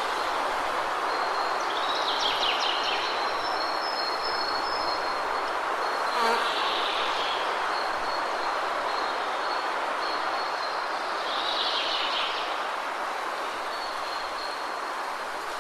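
Waterfall rushing steadily, with birds chirping in short bursts about two seconds in, about six seconds in and near the end, over a thin high trill that comes and goes.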